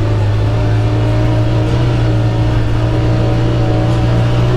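Side-by-side UTV engine running at a steady cruise, heard from inside its enclosed cab: an even, low drone whose pitch wavers slightly.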